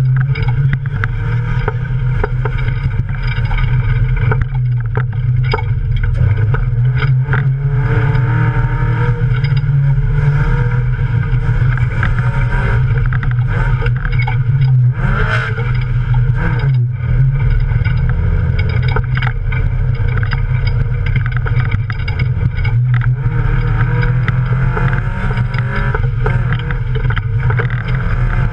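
Off-road race car engine running hard, heard from inside the cabin, its revs rising and falling as it is driven over rough ground, with sharp knocks from the car body.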